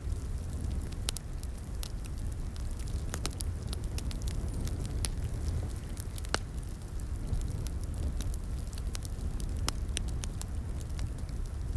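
Crackling wood fire in a fireplace: irregular sharp pops and snaps over a steady low rumble of the burning logs.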